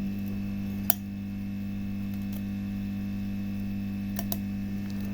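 Steady electrical mains hum, with one sharp click about a second in and two faint ticks near the end.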